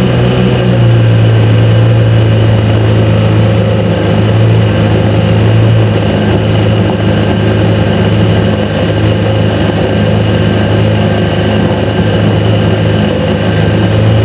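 Engine running steadily with a low, even hum that settles slightly lower in pitch about a second in. The owner hears a noise in it like a loose piece of metal moving around inside the engine, though it barely comes through in the recording.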